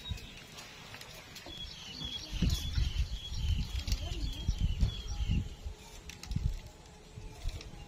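A bird chirping: a run of short, high chirps, about two a second, that stops about five seconds in. Under it is an uneven low rumble.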